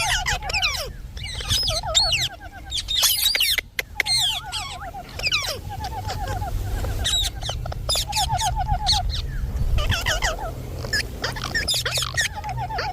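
Indian ringneck parrot calling: short rattling trills, repeated every second or two, mixed with high sweeping whistles and squeaks. A steady low hum runs underneath.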